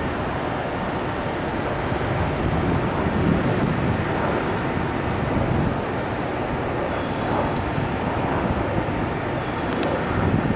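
Steady rumble and hiss of a train at a railway station platform, with a single sharp click near the end.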